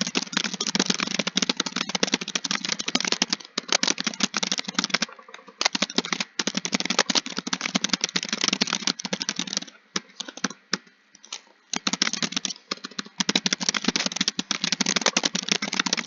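Fast typing on a computer keyboard: rapid runs of key clicks, broken by short pauses about five seconds in and again around ten to twelve seconds in.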